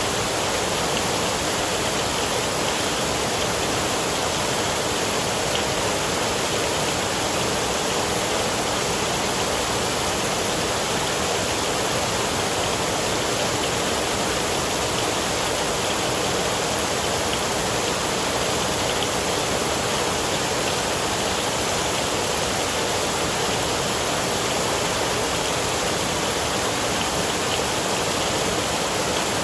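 Steady heavy rain from a thunderstorm sound recording: an even, unbroken hiss with no thunder.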